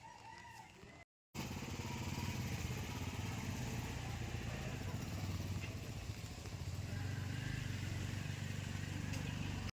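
A small petrol engine running steadily at speed, cutting in abruptly about a second in.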